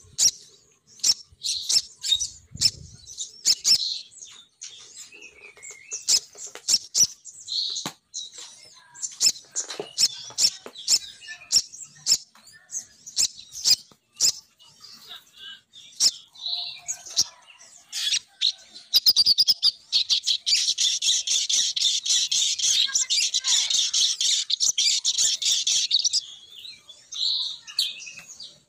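Female sogon bird calls played as a lure: short, sharp, high chips and ticks, breaking into a dense, rapid chattering run about two-thirds of the way in that stops shortly before the end.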